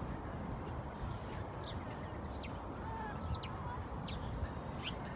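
Small birds chirping: short, high, downward chirps every half second or so, over a steady outdoor background rush.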